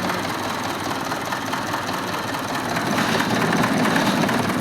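Tractor engine running steadily, getting a little louder about three seconds in.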